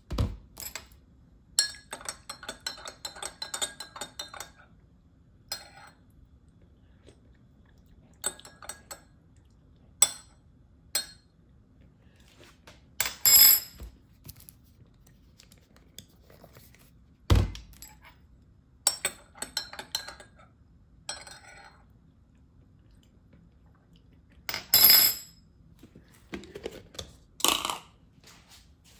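Kitchenware being handled: a metal spoon clinking quickly against a coffee mug for a couple of seconds, with scattered knocks, clinks and a thump of things being picked up and set down.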